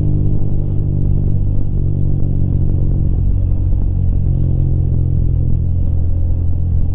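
Rusi Classic 250 motorcycle engine running at a steady cruise while riding, a low, even drone.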